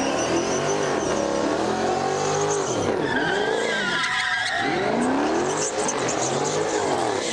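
A car doing a burnout with its tires squealing, the engine's revs climbing and dropping over and over, about once every second or so.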